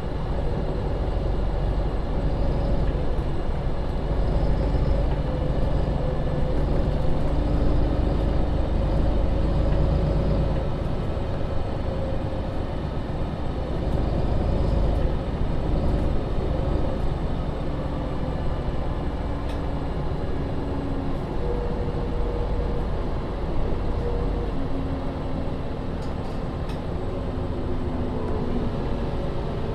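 MAN Lion's City (NL 283) city bus under way: its diesel engine and drivetrain running with a steady low rumble, and a whine that shifts up and down in pitch several times as the bus speeds up and slows.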